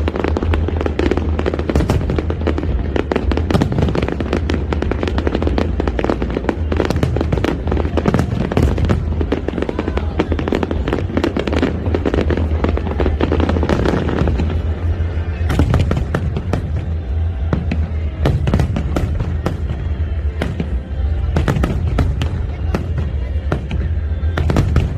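A fireworks display with shells bursting in rapid, overlapping cracks and bangs, many per second and thickest in flurries past the middle and near the end. Music plays underneath.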